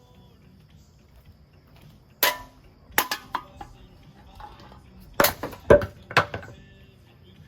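A running ceiling fan smashing itself apart, giving sharp crashing and clinking impacts: one about two seconds in, a quick cluster a second later, and three of the loudest between five and six and a half seconds.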